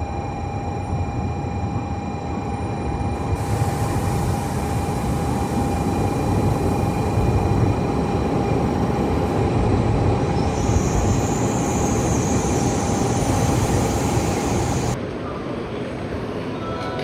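A Shinkansen train running at the station: a steady rushing rumble with a hiss of air that sets in a few seconds in and grows louder. It drops away sharply near the end.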